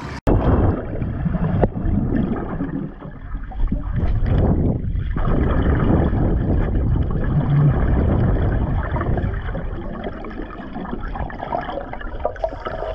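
Muffled water gurgling and sloshing, heard through a camera held under water while swimming.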